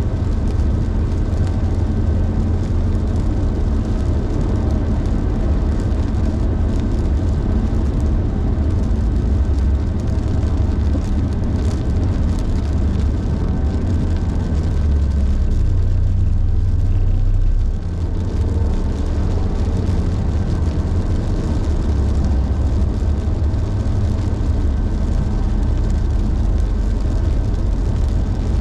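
Car driving, a steady low road-and-engine rumble with a hiss of noise over it; the rumble dips briefly about eighteen seconds in.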